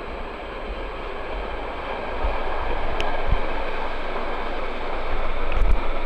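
Freight train of covered wagons rolling past on the adjacent track: a steady noise of wheels on rail that grows louder, with a few sharp clicks from the wheels near the end.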